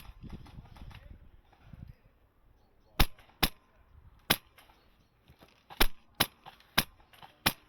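HPA-powered airsoft M4 (Wolverine MTW) firing single shots: about eight sharp cracks at irregular intervals, one right at the start and the rest from about three seconds in. A low rustle runs under the first couple of seconds.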